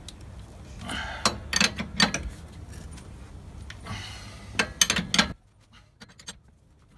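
Metal tools clinking and scraping against a wheel hub as a wheel nut is wrenched down on a new wheel stud, drawing the stud into the hub. The sharp clicks and scrapes come in two spells and stop about five seconds in.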